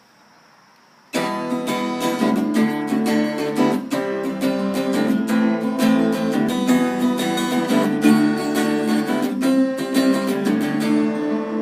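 Acoustic guitar strumming chords, starting suddenly about a second in after a faint hush, in a steady rhythm of strokes.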